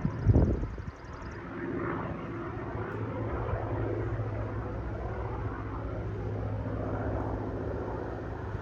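Piston aircraft engine running steadily, with a brief gust of wind buffeting the microphone about half a second in.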